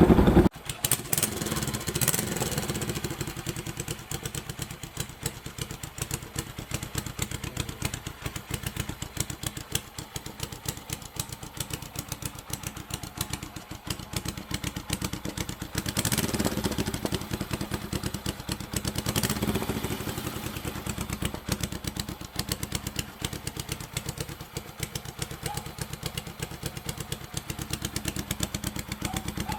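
Honda CL72 scrambler's 250 cc parallel-twin engine idling, with a few short throttle blips about two, sixteen and nineteen seconds in. A louder rev cuts off suddenly half a second in.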